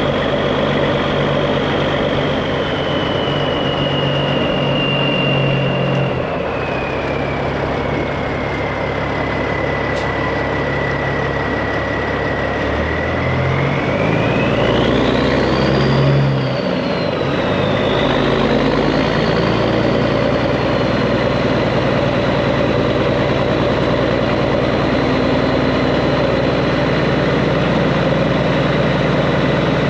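Straight-piped Peterbilt 389's diesel engine running under way, with a high whine over it. The whine slowly sinks in pitch, then climbs sharply about halfway through as the engine note changes and swells, then holds steady.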